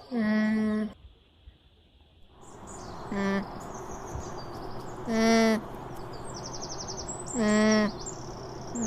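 Alpaca humming: a handful of short, steady, nasal hums, one every couple of seconds. From about two and a half seconds in there is outdoor background noise, with birds chirping.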